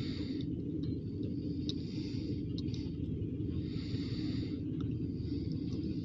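Steady low rumble of a freight train of tank cars and grain hoppers rolling slowly past, heard from inside a car, with a soft hiss swelling and fading about every two seconds.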